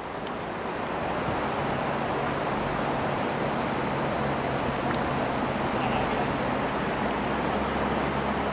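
Steady rush of river water, swelling over the first second and then holding even.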